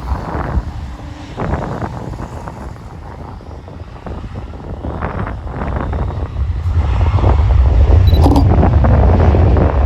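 Wind buffeting the microphone as a deep, uneven rumble that grows much louder over the second half. There is a brief click about eight seconds in.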